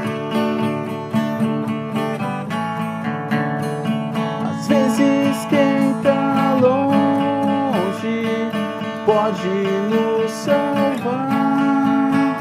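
Live pop-rock performance: strummed acoustic guitar chords with a melody line over them that slides and bends in pitch, the instrumental intro of the song before the vocals come in.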